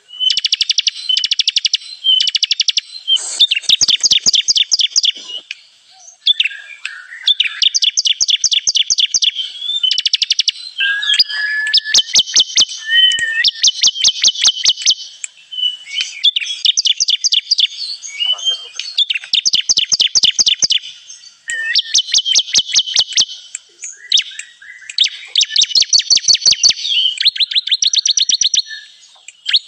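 Ciblek kristal (a prinia) song used as a trapping lure: fast trills of sharp, repeated high notes in phrases of one to two seconds, one after another with short pauses.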